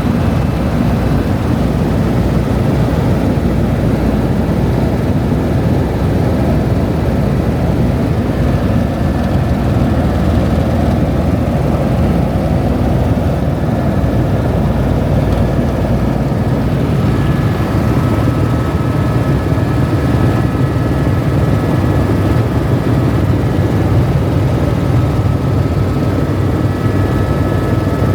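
Tour helicopter in flight: steady rotor and engine noise, with a faint high whine that comes up about halfway through.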